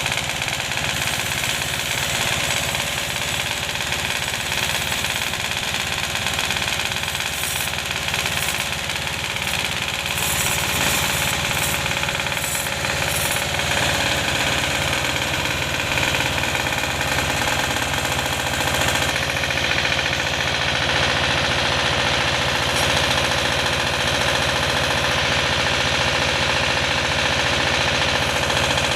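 Sawmill machinery running steadily, a saw and the engine that drives it, with a few brief crackles partway through.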